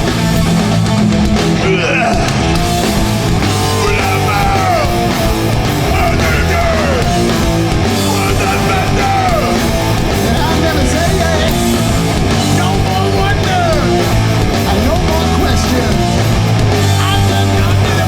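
Hardcore punk band playing loud and live: distorted electric guitars, bass and drums without a break.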